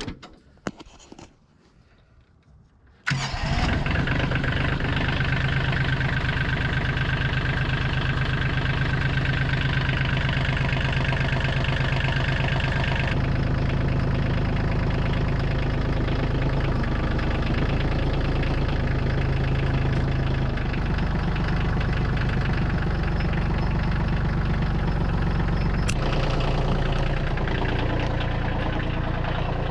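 An engine starts abruptly about three seconds in and then runs steadily at a constant speed, its tone shifting slightly partway through.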